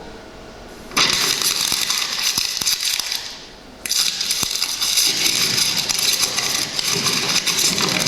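Audience applauding: a dense patter of clapping that starts about a second in, dips briefly, then picks up again.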